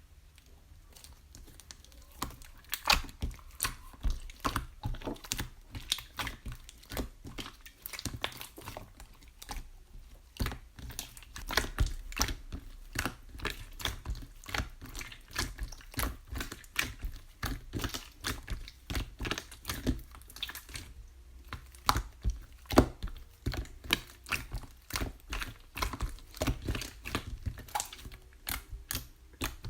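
Rapid, irregular clicking and tapping with some crinkling, several sharp taps a second, starting about two seconds in.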